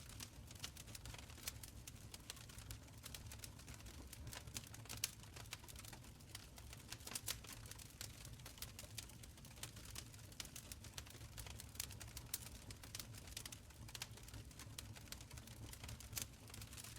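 Wood fire crackling in a stone fireplace: many small irregular snaps and pops over a low, steady rumble of the flames.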